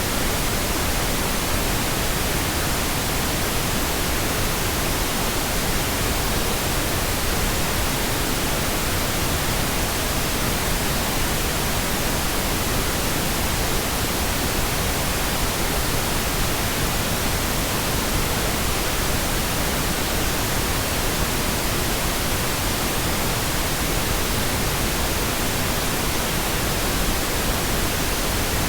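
Pink noise: steady, uninterrupted hiss spread across the whole audible range, unchanging in level.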